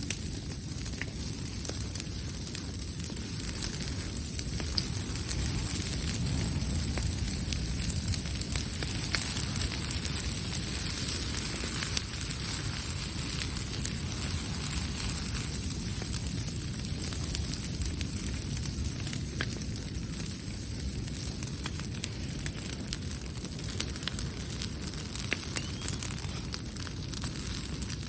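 Wood campfire burning, with scattered small crackles and pops over a steady low rush of flames, and a steady high hiss throughout.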